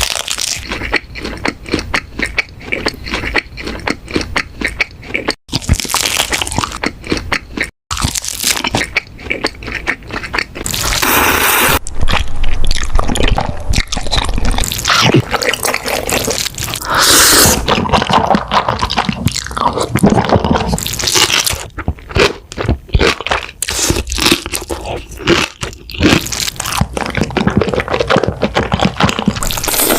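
Close-miked eating sounds: loud, rapid crunching bites and chewing, as in mukbang clips. It breaks off abruptly twice in the first eight seconds where one clip cuts to the next.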